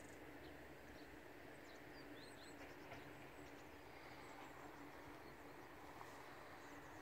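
Near silence with a low steady hiss, and faint, high bird chirps scattered throughout.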